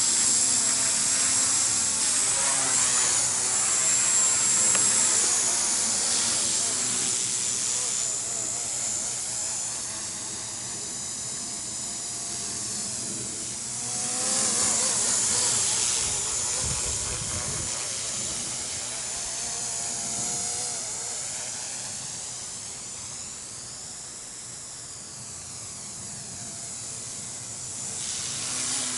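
MasterCP micro RC collective-pitch helicopter in flight, its 3800KV brushless main motor giving a high steady whine over rotor hiss. The tone sweeps and phases as the helicopter moves about, growing louder for a couple of seconds around the middle and falling off toward the end.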